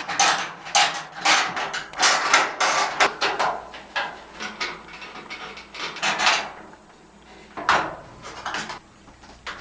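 Clattering knocks, clunks and scrapes of dryer parts being handled and fitted back together, thickest in the first three seconds, then a few more scattered knocks.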